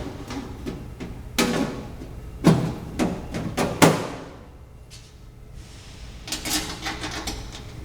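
A fryer's side panel being fitted into place: about five sharp knocks and clacks in the first four seconds, then lighter rattling and scraping near the end.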